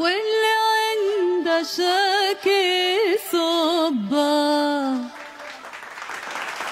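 A woman sings the closing phrases of a Tunisian song into a microphone, unaccompanied once the band drops out, with vibrato and a long held final note ending about five seconds in. Audience applause follows.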